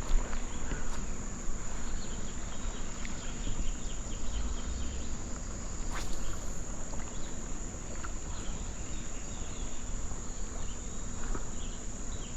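Insects trilling in a steady, unbroken high-pitched drone, over a low rumble, with a single sharp click about halfway through.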